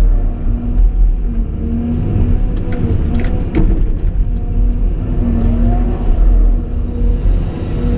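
Caterpillar 349E excavator's diesel engine and hydraulics running with a heavy steady rumble, with a few sharp metallic knocks about three seconds in.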